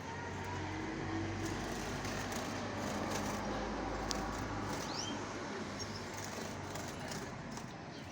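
Steady outdoor background rumble like distant traffic, with a couple of faint short bird chirps about five seconds in.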